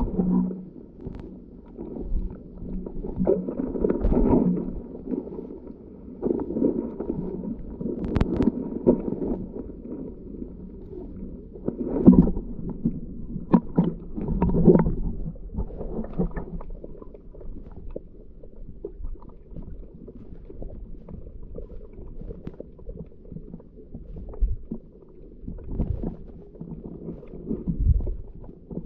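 Underwater sound of a scuba diver's breathing and exhaled bubbles, muffled and low, heard through a GoPro's waterproof housing. It comes in rumbling, gurgling surges every few seconds, with a few sharp clicks.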